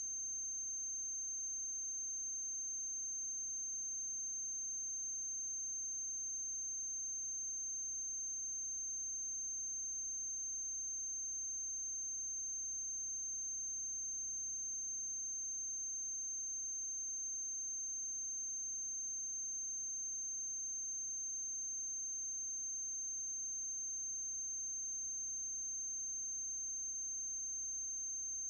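Steady high-pitched electrical whine over a low mains hum and faint hiss, unchanging throughout. This is playback or transfer noise on the soundtrack of a silent film, not any sound of the scene.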